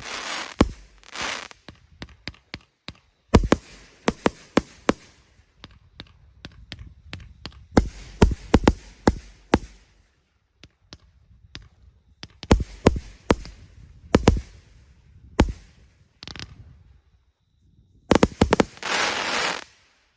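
42-shot, 1.2-inch consumer firework battery firing: sharp launch thumps and bursts in uneven clusters with short gaps, and a dense crackling flurry near the end before it stops.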